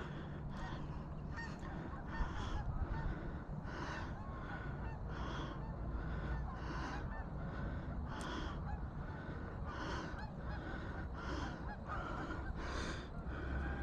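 A flock of geese honking, many calls overlapping in a steady stream, really loud up close.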